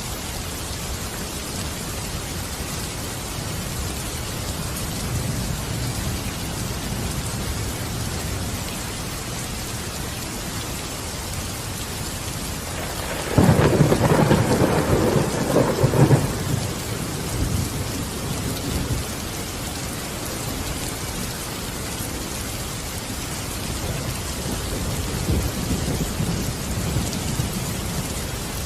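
Steady rain falling, with a sudden crack and rumble of thunder about halfway through lasting a few seconds, and a quieter rumble building near the end.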